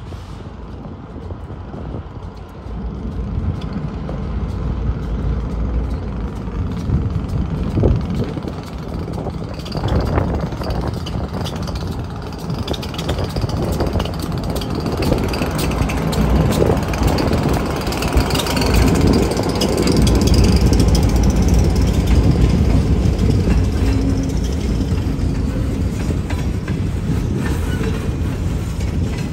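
Two Finger Lakes Railway diesel locomotives hauling a freight train approach and pass close by, their engines growing steadily louder until about two-thirds of the way through. The freight cars then roll past on the rails.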